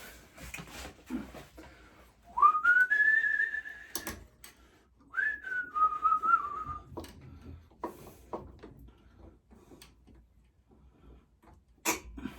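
A person whistling two short phrases: the first rises and is held, the second starts high, falls and wavers. Scattered light clicks and taps sound around them.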